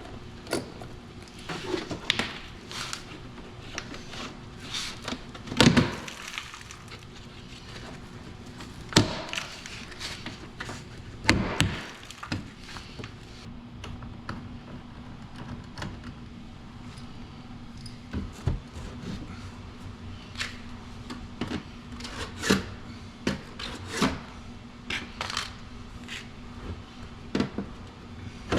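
Irregular clicks, taps and a few louder clunks of hand tools and plastic trim parts being worked off a car body during teardown.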